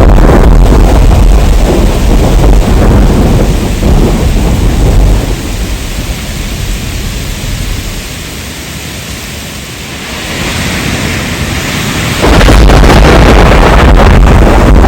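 Heavy rain with a deep thunder rumble. The rumble eases off about five seconds in, leaving quieter rain, then suddenly returns at full loudness about twelve seconds in.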